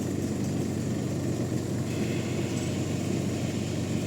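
A heavy engine running steadily with a deep, even hum, typical of a sawmill's machinery.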